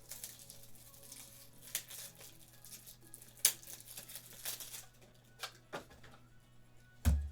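Trading cards and foil pack wrappers being handled on a table: soft rustling and scattered light clicks as cards are slid and flicked through, with a dull knock near the end.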